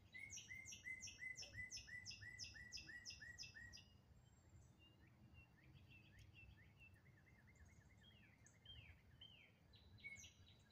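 A songbird singing a quick, even series of short down-slurred notes, about three a second, for the first four seconds; after that come fainter, scattered falling calls over a low steady background of outdoor ambience.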